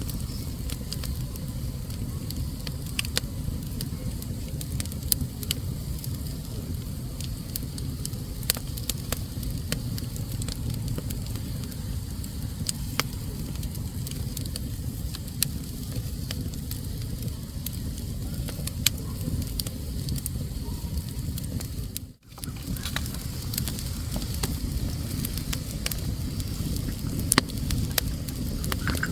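Fire burning in a fireplace: a steady low rumble with frequent sharp crackles and pops scattered throughout. The sound cuts out for a moment about two-thirds of the way through.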